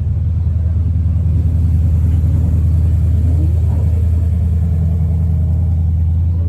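Car driving along with a steady low engine and road rumble, heard from inside the cabin.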